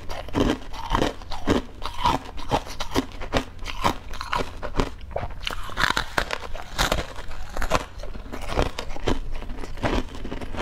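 Close-miked chewing and biting into a pastry with a patterned crust: irregular crunching and crackling mouth sounds, several a second.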